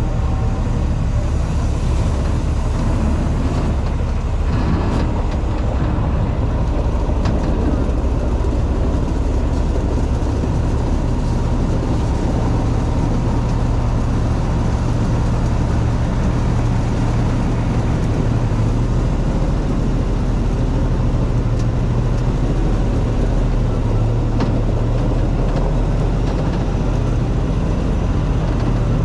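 Heavy diesel engine running steadily with a constant low hum, its speed unchanging.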